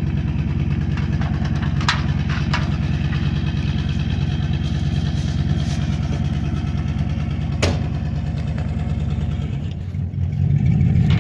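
Truck engine idling steadily, with a few sharp knocks; near the end the engine sound dips briefly, then grows louder and steadier.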